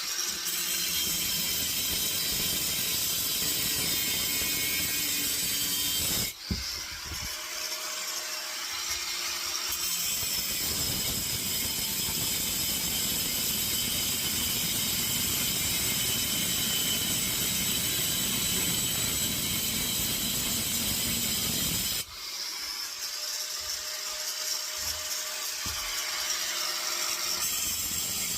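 Angle grinder with a new cutting blade cutting through the steel shell of a compressor, a steady high grinding noise with faint whining tones. It drops briefly twice, about six seconds in and again near three-quarters through, then cuts on.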